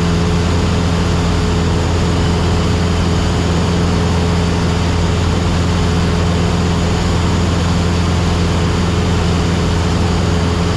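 Cessna 172SP's Lycoming IO-360 four-cylinder engine and propeller droning steadily at cruise power, heard inside the cabin.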